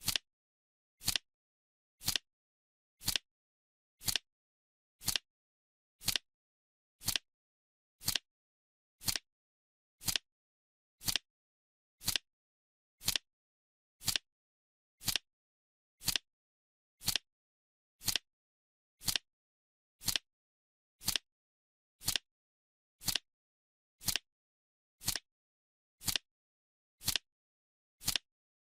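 Clock-style ticking: one short, sharp tick every second, evenly spaced with dead silence between ticks.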